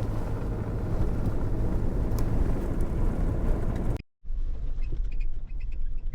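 Suzuki Jimny driving along, with a steady low engine and road rumble and faint rattles. About four seconds in the sound cuts out abruptly for a moment, then a similar low rumble carries on.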